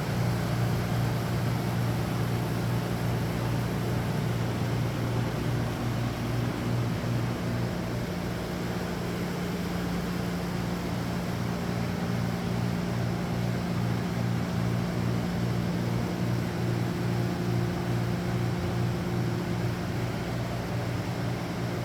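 Shop machinery running steadily, with a low hum that pulses evenly.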